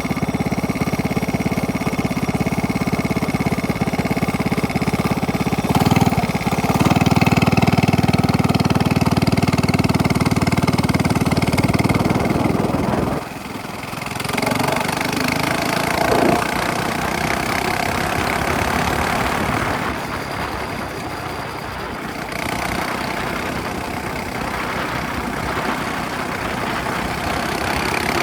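Minibike's small engine running loud through a straight-pipe exhaust, steady for about thirteen seconds, then dropping off sharply and carrying on quieter.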